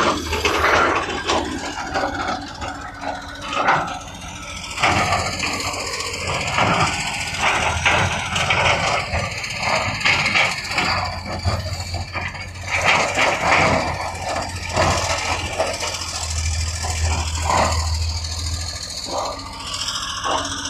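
Heavy construction machinery at work: a diesel engine runs steadily under many irregular knocks and scrapes, as of a bucket or blade working rock and dirt.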